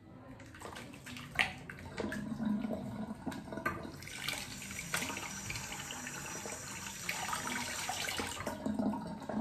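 Water running from a tap into a bathroom sink, building up about two seconds in and stopping shortly before the end, with a few light knocks and clicks.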